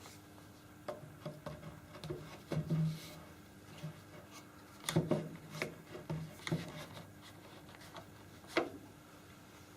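Irregular light knocks, taps and scraping of objects being handled, in clusters, with the sharpest knocks about five seconds in and one more near the end.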